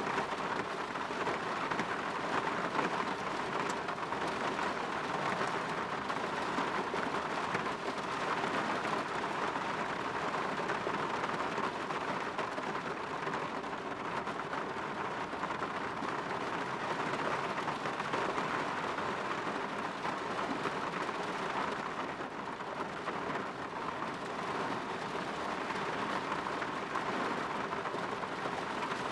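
Steady rain pattering on a window, an even hiss of many small drops without a break.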